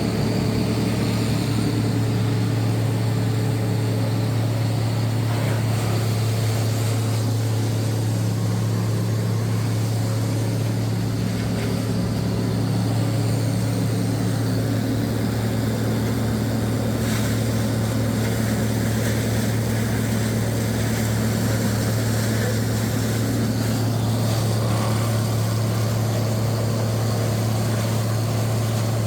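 Tree chipper's engine running steadily at a constant speed with a strong, even low hum.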